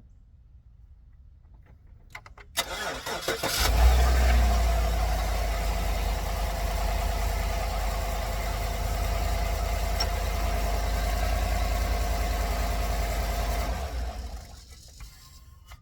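A truck engine is cranked by the starter for about a second, catches with a loud surge, and settles into a steady idle for about ten seconds before it is shut off near the end. It now starts promptly after a failed charging-system component was replaced and the battery put back in.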